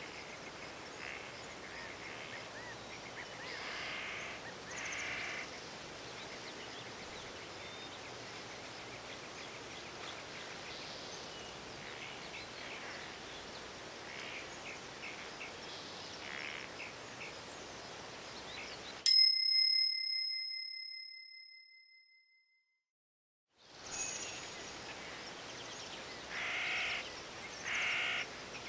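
Forest ambience with bird calls, cut off by a single bell-like ding that rings and fades over about three seconds, marking the end of a timed interval. A few seconds of silence follow, then the forest sounds start again.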